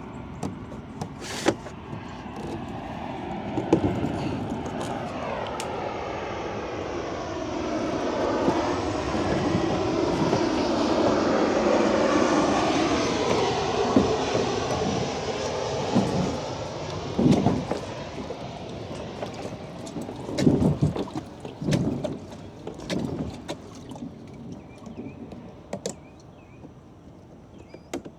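Engine noise of a passing vehicle or aircraft, swelling slowly to a peak and then fading away, with a pitch sweeping downward a few seconds in. A few short knocks follow in the second half.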